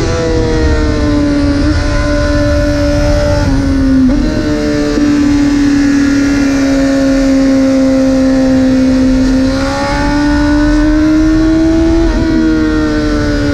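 Honda CBR600RR's inline-four engine running at high revs through a full titanium Arrow exhaust, with wind rushing past. The engine note holds steady and high, drops about four seconds in, then climbs from about ten seconds and steps down again near the end.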